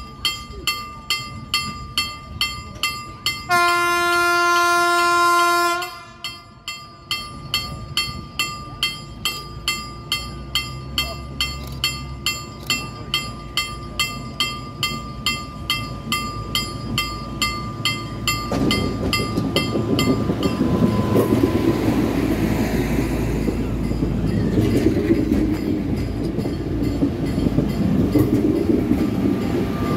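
A ringing warning bell strikes about twice a second, and about four seconds in a train horn sounds for roughly two seconds. From about eighteen seconds a Newag multiple unit rolls past close by with a loud rumble of wheels and running gear, while the bell fades out.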